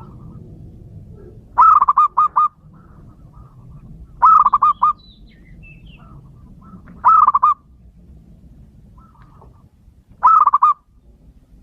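Male zebra dove cooing: four phrases about three seconds apart, each a quick run of four or five rolling coo notes, with faint chirps between the phrases.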